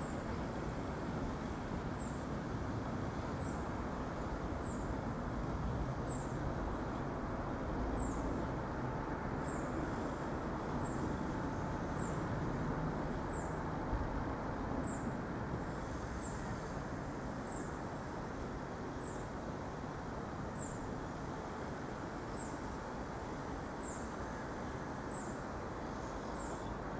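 Low steady rumble of the receding Enterprise train and its 201 Class diesel-electric locomotive, fading slowly as it moves away. A short, thin, high chirp repeats about every second and a half.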